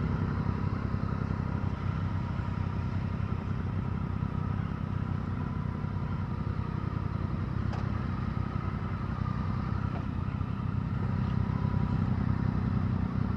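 Yamaha MT-07 motorcycle's parallel-twin engine running steadily, getting a little louder near the end.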